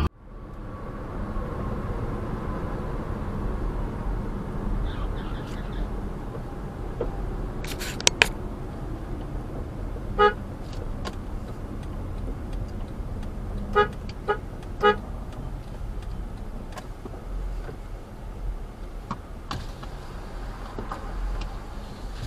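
Steady car road noise with a car horn honking in short toots: one about ten seconds in, then three quick toots a few seconds later. Two sharp clicks come shortly before the first toot.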